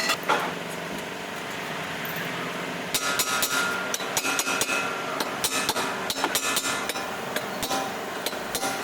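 Hammer striking metal repeatedly during a bearing replacement, about two to three blows a second starting about three seconds in, some blows leaving a brief metallic ring.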